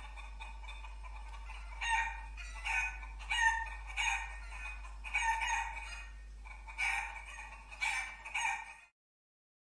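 Chickens calling in a string of short squawks and clucks, starting about two seconds in, over a steady low hum; everything cuts off suddenly near the end.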